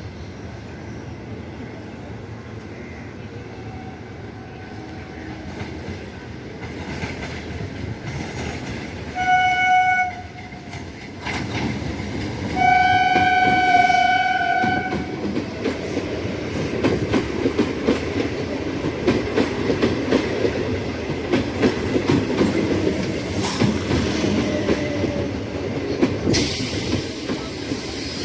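Indian Railways suburban EMU local train approaching: a short horn blast, then a longer one lasting about two and a half seconds, followed by the train running past with rising rumble and rhythmic wheel clatter over the rail joints.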